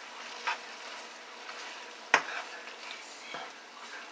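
Catfish frying in a pan with a steady sizzle, with a few sharp knocks of a spatula against the pan, the loudest about two seconds in.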